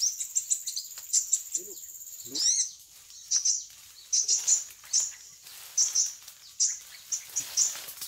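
Small birds chirping: short, high chirps in quick clusters, over a steady high insect buzz that stops about two and a half seconds in.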